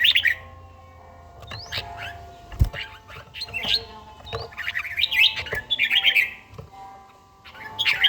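Red-whiskered bulbul singing in bursts of quick, bright chattering phrases separated by short pauses. A single low knock comes about a third of the way in.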